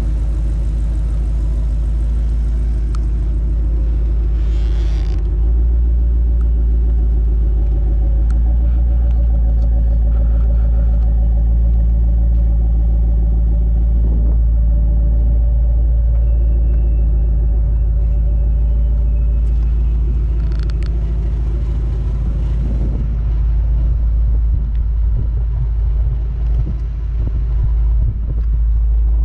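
Idle of a 2007 Ford Mustang GT's 4.6-litre V8 fitted with a Kenny Brown twin-turbo kit: a steady, even rumble.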